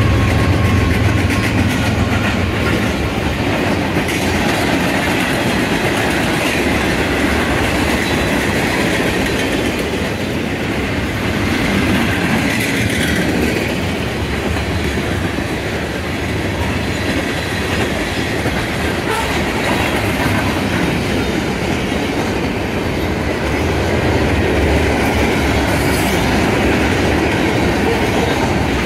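CN freight train's cars rolling past: steady rumble and clatter of steel wheels on the rails, continuous with no break.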